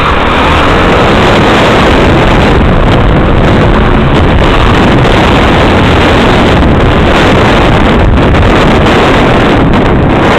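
Honda Tornado 250 single-cylinder dirt-bike engine running hard through a wheelie, loud and steady, with heavy wind noise on the microphone.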